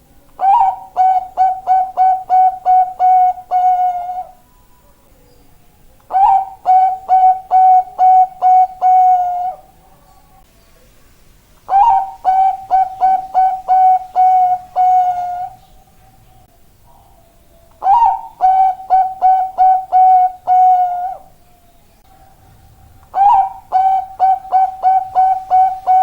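Zebra dove (Bangkok-type perkutut) singing: five song phrases about six seconds apart, each a higher opening note followed by a quick run of about eight short, clipped coos.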